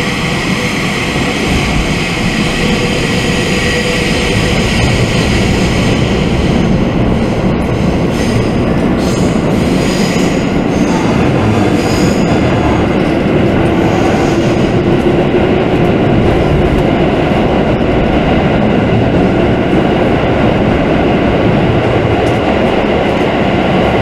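JR West 221 series electric train running, heard from inside the carriage: a steady rumble of wheels on the rails, with thin high-pitched wheel squeal coming and going around the middle.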